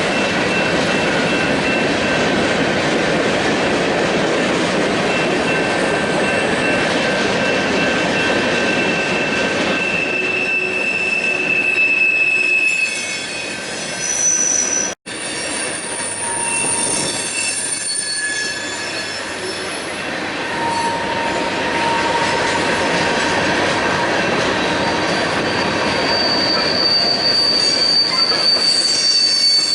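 Freight cars of a passing train rolling by, their wheels squealing in several steady high tones that come and go over the steady rumble of the train. The sound cuts out abruptly for an instant about halfway through, then the rolling and squealing carry on.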